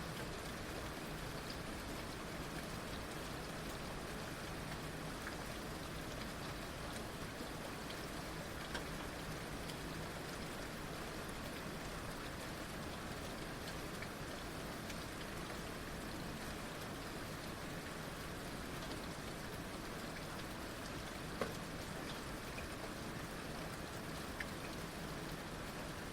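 Heavy rain falling steadily, with now and then a single louder drop striking close by.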